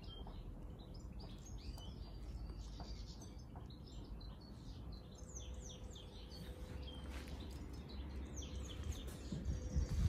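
Small birds chirping and twittering in the background, many short calls scattered throughout, over a low steady rumble of outdoor noise.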